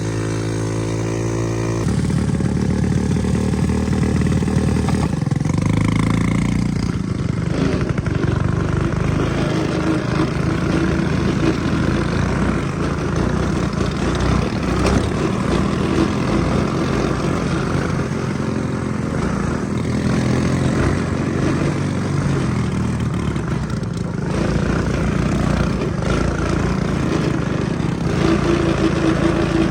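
A small off-road vehicle's engine running: it holds a steady speed for about the first two seconds, then revs up and down continuously as the vehicle is ridden.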